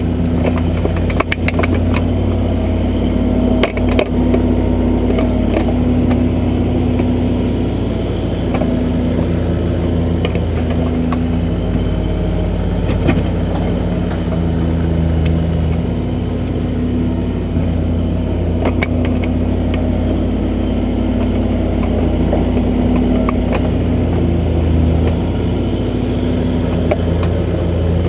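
Kubota backhoe's diesel engine running steadily, its note swelling and easing as the hydraulics take load while the arm digs, with a few sharp knocks from the working arm.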